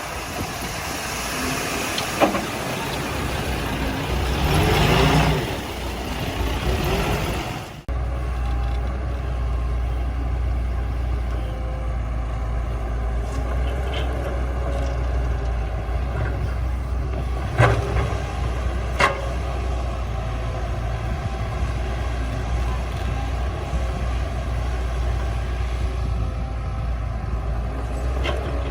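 Heavy diesel earthmoving machinery. First comes a noisy rush with a louder surge about five seconds in. Then, after an abrupt cut, a steady low diesel engine drone runs with a couple of sharp clicks.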